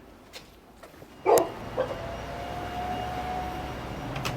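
A dog barks loudly once about a second in, with a smaller bark just after. Then a car engine comes in with a steady low hum.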